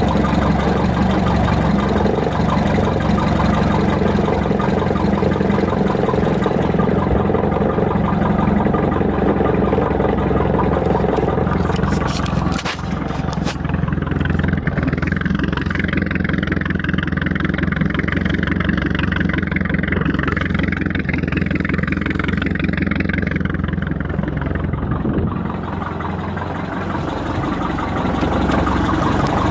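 Inboard engine of a 1955 Lyman Islander boat running steadily. A few sharp clicks come about twelve seconds in, and the sound is duller for about ten seconds after that before its fuller sound returns.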